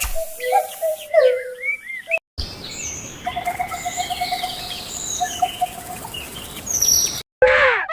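Birds calling and chirping: first a series of gliding whistled calls, then, after a brief break, high chirps and a rapid repeated trill over steady outdoor background noise. A short falling whistle comes near the end.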